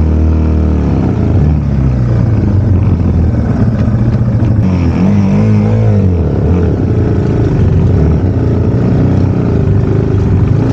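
Yamaha TW200's air-cooled single-cylinder four-stroke engine working hard in deep mud, its revs falling just after the start and rising then dropping again about five to six seconds in.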